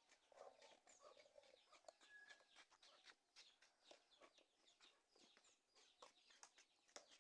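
Faint background bird calls: short chirps and clucks, over otherwise near silence.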